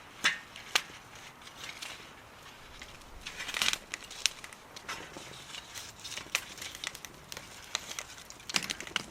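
Wood fire burning in a small wood stove, crackling with irregular sharp pops and a few louder snaps.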